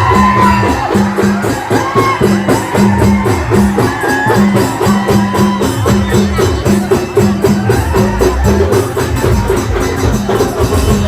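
Live band music: a steady, repeating drum beat with a melody played over it.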